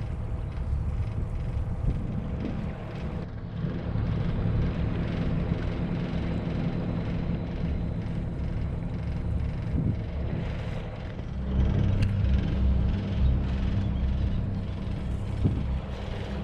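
Sailing catamaran's engine running steadily under way. Its note shifts about three seconds in and again a little past the middle.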